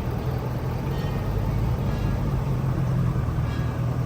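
A vehicle engine running steadily, a low hum.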